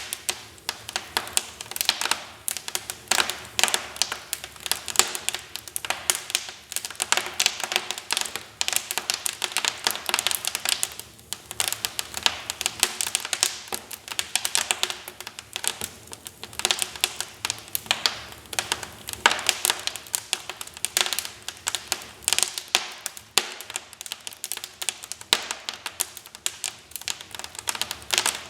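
Wood fire crackling in a fireplace: dense, irregular snaps and pops over a soft hiss.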